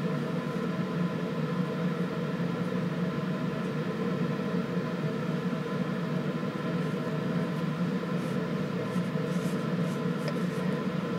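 A steady mechanical hum holding several fixed pitches, with faint light clicks of knitting needles in the second half as stitches are worked.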